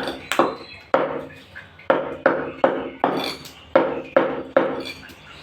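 Butcher's cleaver chopping chicken into pieces on a chopping block: about a dozen sharp blows at an uneven pace of roughly two a second, each with a short ring.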